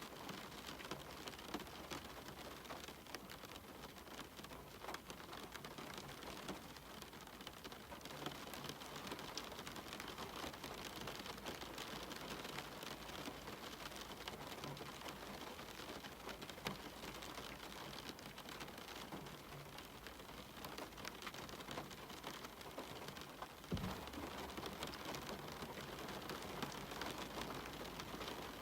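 Steady rain on a cabin window, a continuous hiss with many individual drops ticking through it. About 24 seconds in there is a single low thump, after which the rain is slightly louder.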